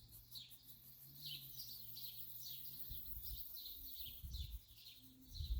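Small birds chirping steadily in a garden, a quick run of short, high calls that slide downward, a few each second. A few low thumps come in near the end.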